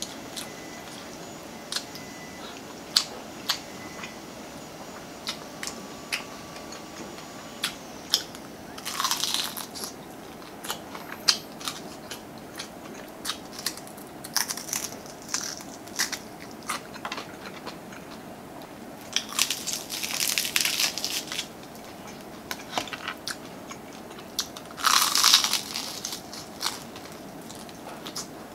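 Close-miked biting and chewing of crispy fried chicken coating: three loud bouts of crunching, the loudest near the end, with sharp crackles and small mouth clicks between them.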